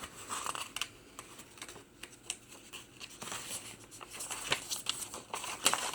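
Pages of a handmade paper journal being turned by hand: soft rustles with scattered light clicks and crisp flicks of mixed vintage papers, a couple of louder crinkles near the end.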